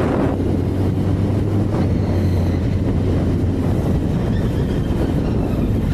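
Honda CBR1000RR Fireblade's inline-four engine running at a steady speed under way, a constant low hum, with wind rushing over the microphone.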